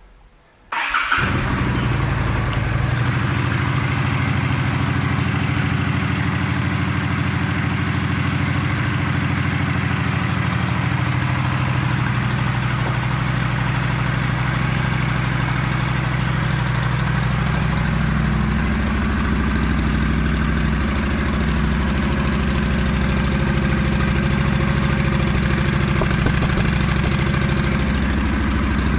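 Honda Shadow 750 Phantom's 745 cc V-twin engine cranked and started about a second in, then settling into a steady idle.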